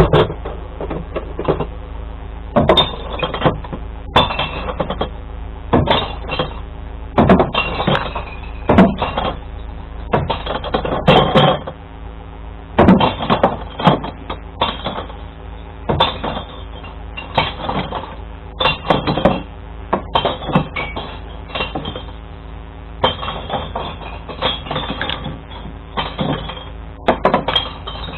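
Glass bottles and jars clattering and crashing as recycling crates are tipped by hand into a glass-collection truck's compartments, in irregular bursts every second or two, over the steady hum of the idling truck engine.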